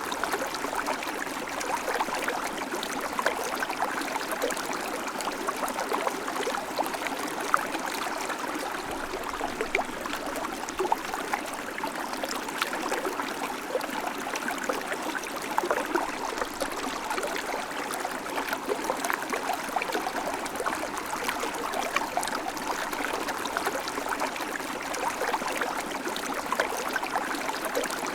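River water flowing steadily over stones, a continuous rushing with small splashes and gurgles throughout.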